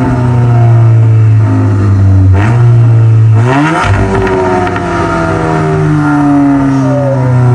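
Car engine under way: its pitch holds steady, climbs sharply about three and a half seconds in, then slowly sinks.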